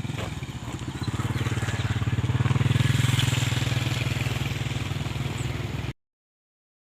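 Motorcycle engine running with a rapid, even low pulse, growing louder about a second in and then cutting off suddenly near the end.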